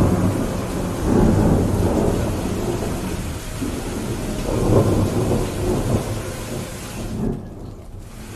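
A thunderclap breaking at once into a long, deep rumble of thunder that swells twice and fades away, over steady heavy rain. Near the end the rain hiss briefly drops out.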